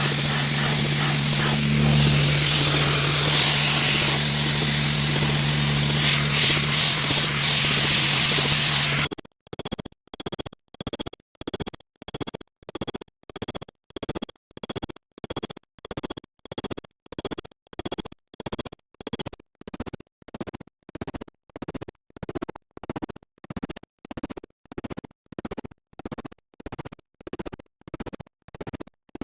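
Steady hiss of compressed-air spraying, with a low steady hum under it, for about nine seconds. Then it cuts suddenly to music with an even pulsing beat of about two beats a second.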